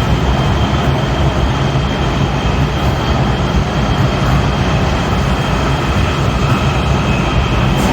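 Cabin noise inside a Kawasaki 7000-series Metrorail car running at speed: a steady loud rumble of wheels on rail, with a faint steady whine above it.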